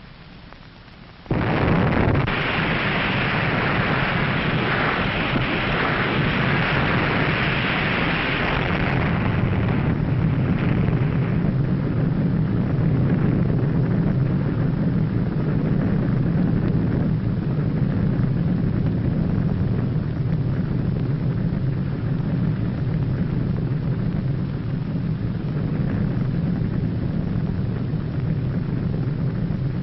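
Underwater nuclear explosion sound effect: a sudden blast about a second in, then a loud hiss that fades after about ten seconds into a long, steady, deep rumble.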